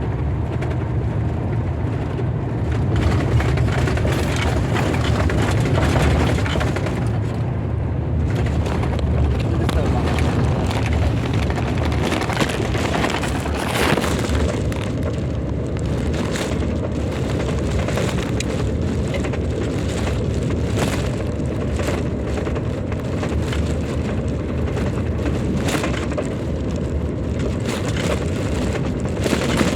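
Car driving, heard from inside the cabin: a steady low road and engine rumble, with many short sharp ticks and cracks over it.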